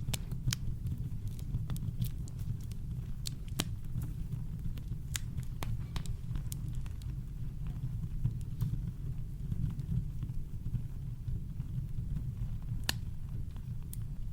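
Campfire crackling: scattered sharp pops and snaps over a steady low brown-noise rumble. The pops thin out in the middle, and one loud pop comes near the end.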